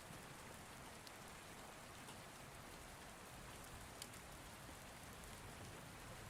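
Faint, steady rain ambience: an even patter of rain with an occasional light drop tick.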